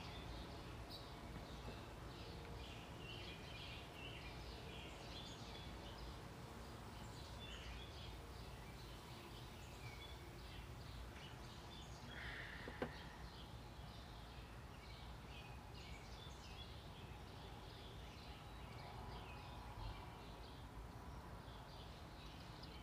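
Small birds chirping repeatedly and faintly over a steady low background noise, with a single click about thirteen seconds in.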